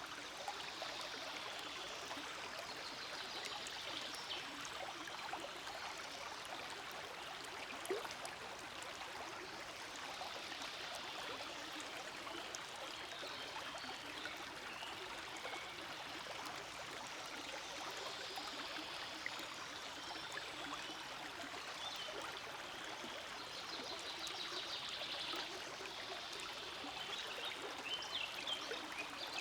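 Small forest stream flowing steadily.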